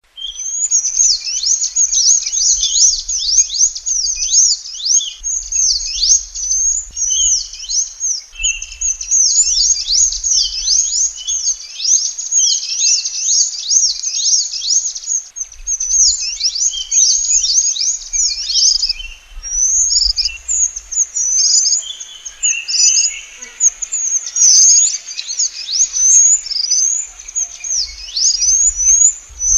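Minivets (burung mantenan / sepah) calling and chirping continuously: a dense stream of very high, thin whistled notes, each sweeping quickly downward, with a faint low rumble coming and going underneath.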